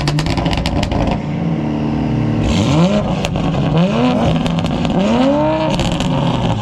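A car engine revved in a series of blips, its pitch climbing and dropping back each time, with sharp pops and cracks in between.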